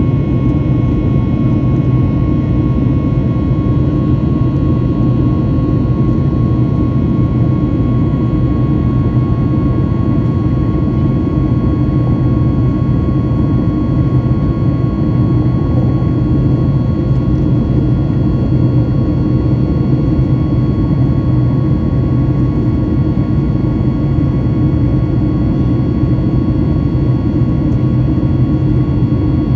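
Steady cabin noise of a Boeing 737 MAX 8 in flight: a loud, even rumble from its CFM LEAP-1B engines and the airflow, with a faint steady whine above it.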